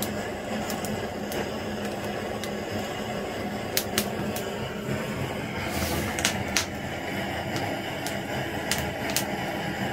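Wood fire crackling, with a handful of sharp, irregular pops over a steady low rumble.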